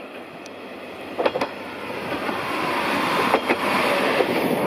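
Akechi 10 class diesel railcar passing close by, its running noise growing steadily louder. Two pairs of wheel clacks over the rail joints, about a second in and again at about three and a half seconds.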